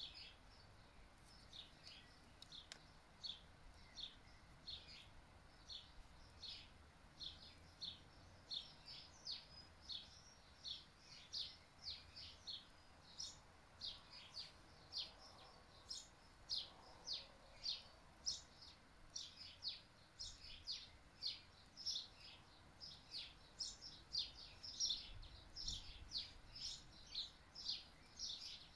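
Small birds chirping: short high chirps that repeat a couple of times a second, growing busier and louder toward the end.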